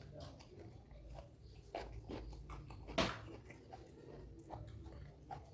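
Close-up eating sounds: chewing with wet clicks and smacks, and one louder crunchy bite about three seconds in.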